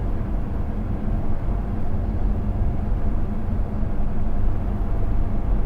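Steady road and engine noise of a car driving, heard inside the cabin: an even low rumble with no distinct events.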